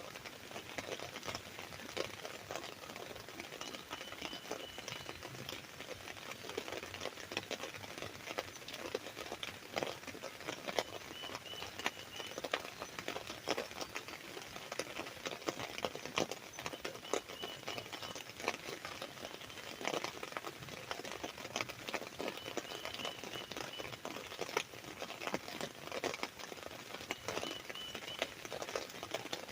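Steady rain pattering on an umbrella canopy: a dense, even run of small drop impacts. A faint short high chirp from a bird repeats about every five seconds.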